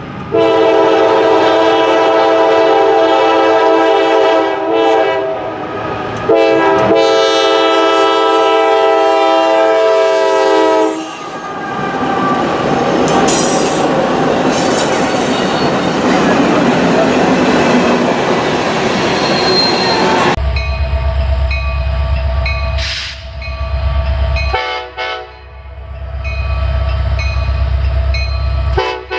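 Locomotive air horn sounding two long blasts, several notes at once, followed by the loud rushing rumble of a passing train. After a cut, train cars rolling by with a deep steady rumble and rhythmic clicking of wheels over rail joints, and the horn starts again near the end.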